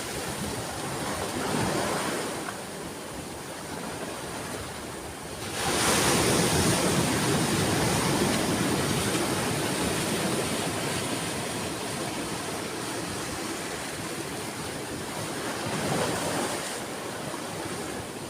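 Ocean waves washing onto a shore: a large wave breaks about six seconds in and its wash slowly fades, with smaller surges near the start and near the end.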